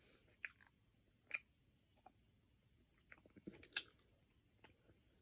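Faint chewing of a soft chewy candy: a few quiet mouth clicks and smacks, about half a second in, a second and a half in, and a small cluster near four seconds in, otherwise near silence.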